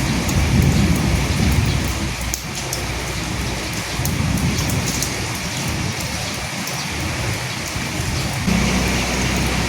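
Steady rain falling, with scattered individual drops, and a low rumble of thunder swelling in the first couple of seconds and again about four seconds in. A steady low hum comes in near the end.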